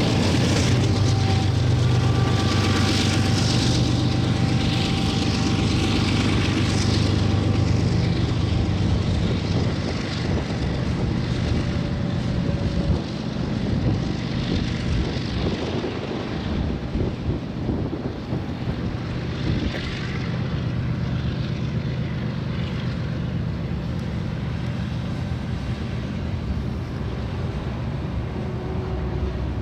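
Diesel freight locomotives running as a freight train rolls by. A steady low engine drone is strongest over the first several seconds, then gives way to an uneven rumble of the train.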